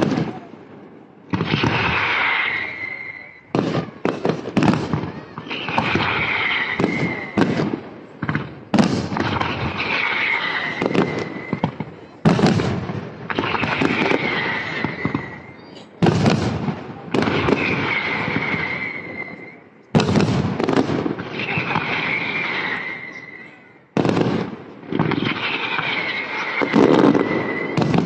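Fireworks display: aerial shells bursting one after another, each a sharp bang that trails off over a second or two, with crackling between the bursts.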